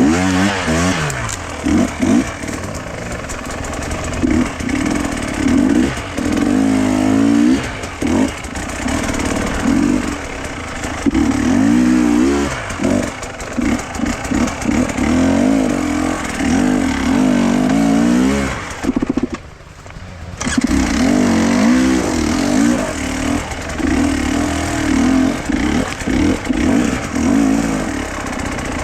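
An engine running under changing throttle, its pitch rising and falling again and again, with a brief drop in level about two-thirds of the way through.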